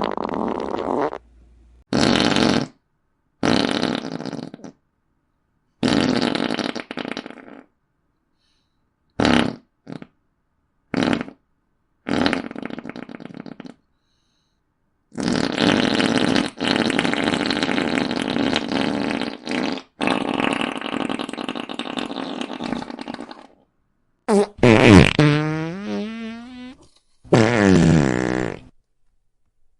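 A string of about ten fart sound effects with silent gaps between them. Some are short pops and one long one runs about eight seconds in the middle. Near the end, two pitched ones slide downward.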